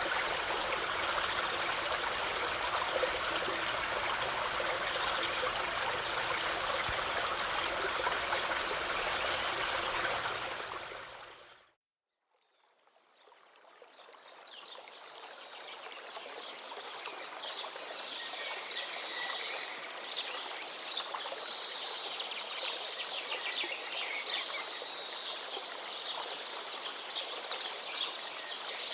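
A river running steadily, which fades out to silence about twelve seconds in. A second, quieter stretch of running water then fades in, with birds chirping over it.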